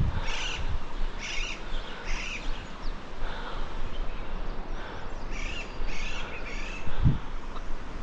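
A bird calling over and over, a short high call about every two-thirds of a second, pausing midway and starting again. There is a steady low rumble underneath and a single low bump about seven seconds in.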